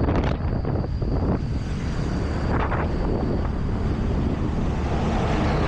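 Motorbike engine running steadily on the move, with wind buffeting the microphone.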